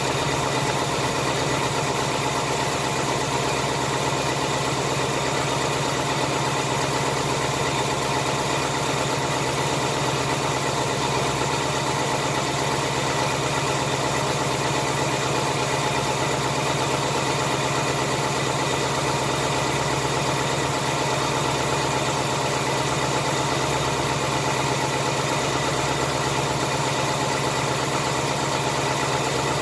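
2018 Ford Mustang GT's 5.0-litre Coyote V8 idling steadily after a cold start. The barbecue tick is not there: the top-end tapping stays gone on fresh oil, which the owner credits to Ceratec carried over from the previous fill.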